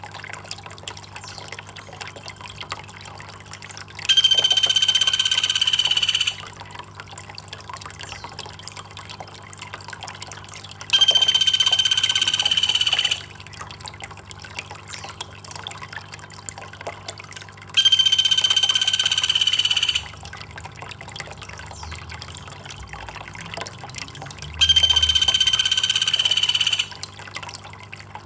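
A high, steady buzzing call about two seconds long, repeated five times roughly every seven seconds, each starting and stopping abruptly, over a constant trickle of running water.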